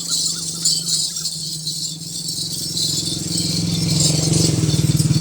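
Continuous jingling of small ankle bells (ghungroos) worn by walking dancing goats. A low pulsing engine hum grows louder in the second half.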